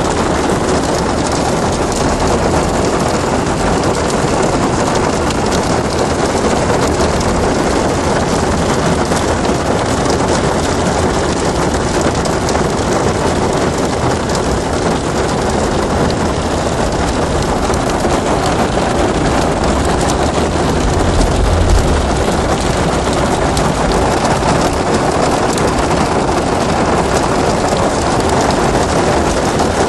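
Hailstorm: hail and rain pelting down steadily as a dense hiss of many small impacts, with a brief low rumble about two-thirds of the way through.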